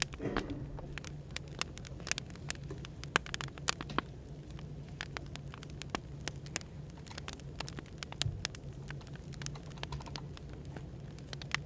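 Wood fire crackling: irregular sharp pops and snaps over a steady low hum of background noise.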